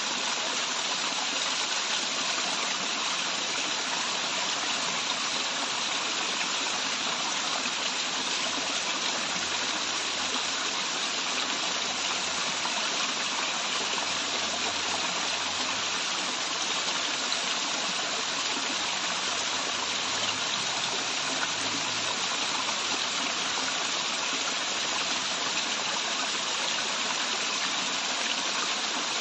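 Steady rush of water pouring down a small waterfall, an even hiss-like splashing with no change in level.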